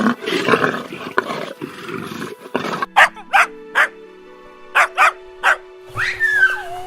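A lion growling and roaring for the first few seconds, then a dog barking in two quick sets of three, over background music.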